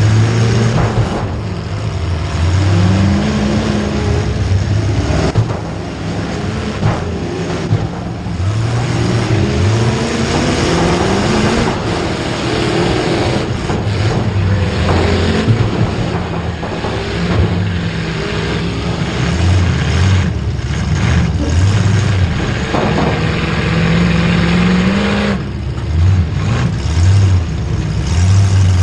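Several motor-vehicle engines revving, their pitch rising and falling again and again over a steady background din.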